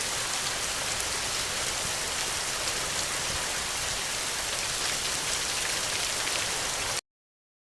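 Steady rain falling, an even hiss, that cuts off abruptly about seven seconds in.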